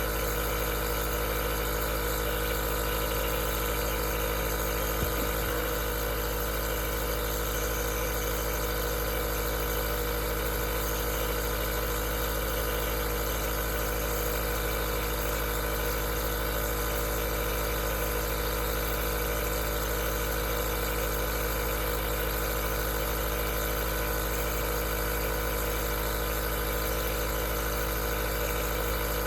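Aerosol nebulizer's compressor running steadily: an even motor hum made of many steady tones, over a hiss of air. There is one faint tick about five seconds in.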